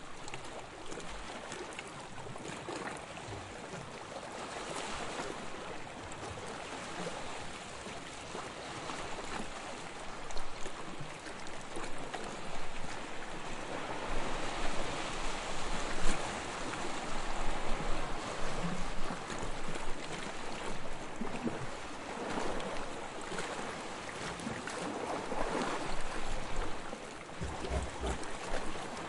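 Soft waves lapping on a sandy shore, a continuous wash of water that swells and falls in gentle surges.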